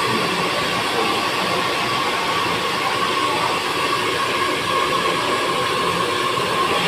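Handheld hair dryer blowing steadily: a constant rush of air with a steady motor whine.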